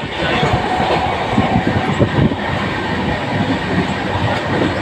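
Train running on the track: a steady rumble with irregular knocks and rattles.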